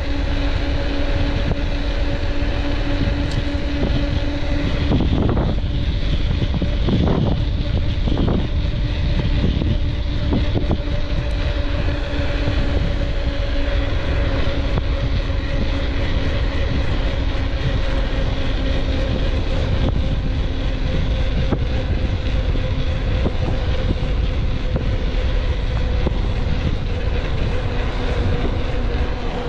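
A steady engine hum over a heavy low rumble, with a few brief sounds about five to eight seconds in.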